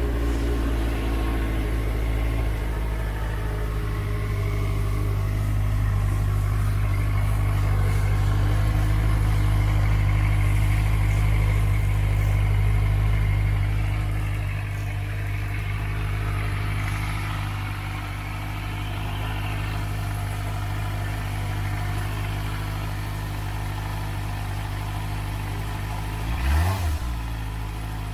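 Benelli 600 RR's 600 cc inline-four idling steadily through its stock exhaust, with a low, even note that settles slightly softer about halfway through. Near the end the throttle is blipped once, a quick rise and fall in revs.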